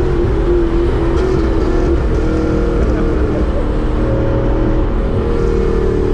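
Supercharged BMW S62 4.9-litre V8 with a straight-piped exhaust and Dinan mufflers, running loud and under way. The engine note holds fairly steady, with small shifts in pitch.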